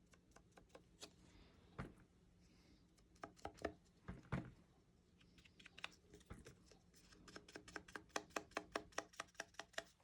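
Faint, quick taps of an ink sponge dauber dabbing Cloud Cover ink onto the edges of card stock: scattered taps at first, then a steady run of about five taps a second from about two-thirds of the way in.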